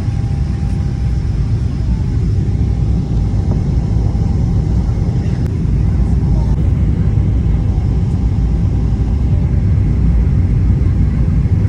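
Steady low rumble of a Boeing 777-300 airliner heard from inside the cabin, getting a little louder about halfway through.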